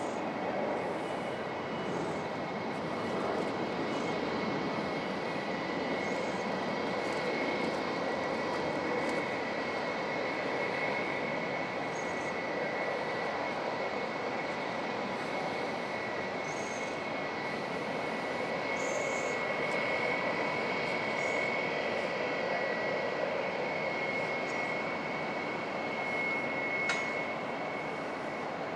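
Jet airliner engines running steadily, with a high, steady whine over a broad rushing noise.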